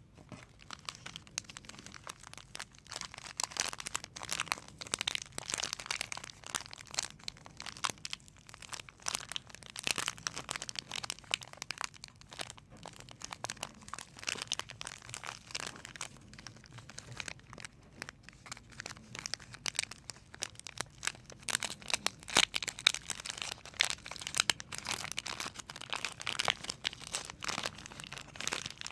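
Soap packaging being unwrapped close to the microphone: dense, irregular crinkling and crackling of the wrapper, with tearing.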